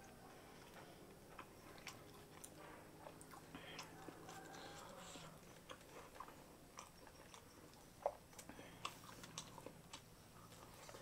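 Faint eating sounds: a person chewing, with small wet clicks of the mouth and of fingers pressing rice on a banana leaf; one sharper click about eight seconds in.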